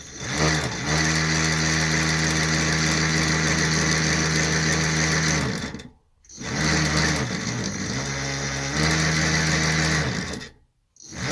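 Hoverboard hub motor on a 36 V e-bike controller whirring as it spins the wheel through a friction drive. It winds up in pitch, runs steadily for several seconds and winds down, twice.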